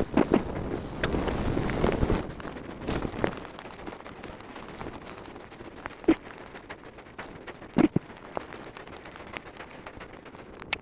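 Mountain bike riding over a trail: wind rushes on the microphone for the first two seconds, then the ride goes on more quietly with scattered knocks and rattles from the bike on rough ground.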